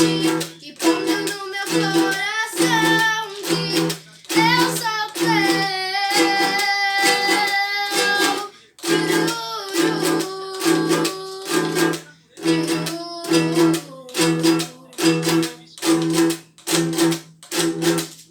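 A sung worship song accompanied on a strummed string instrument, with an even strumming rhythm and a long held sung note about six seconds in.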